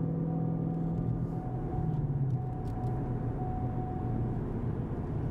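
A 2015 Mustang GT's 5.0 V8 running through an MBRP 3-inch catback exhaust at a cruise, a steady low drone whose pitch drops a little about two seconds in. At cruising speed it pretty much sounds like stock.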